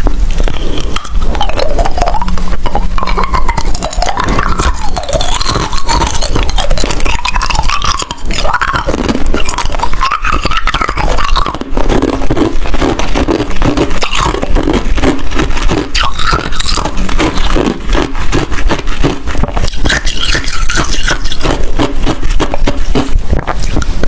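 A person chewing ice close to the microphone: continuous, densely packed crunching and cracking.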